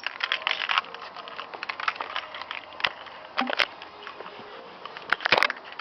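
Handling noise inside a car cabin: a crackling rustle with scattered clicks, and a few sharper knocks in the second half.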